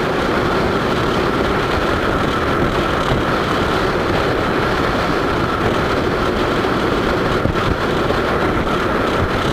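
Steady, loud drone of a moving vehicle: engine and rushing wind noise without a break.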